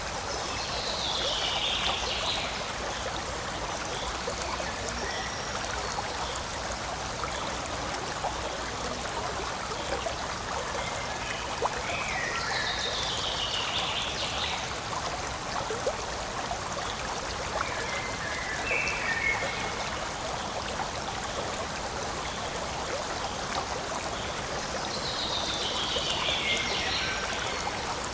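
Forest stream flowing and trickling steadily. A bird gives a falling call three times, about twelve seconds apart, with a few short chirps between.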